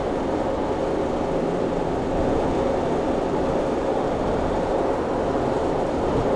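Commercial refrigeration condensing unit running steadily with its compressor on: a continuous mechanical hum and fan noise with a faint steady tone.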